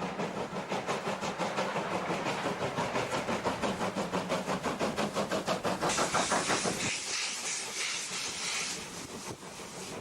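Steam locomotive working with steady, regular exhaust beats. About six seconds in, a loud hiss of released steam takes over for a couple of seconds and then fades.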